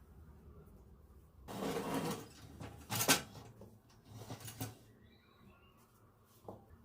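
Household handling sounds: a short burst of noise about a second and a half in, then a sharp knock, the loudest sound, about three seconds in, followed by a few lighter knocks.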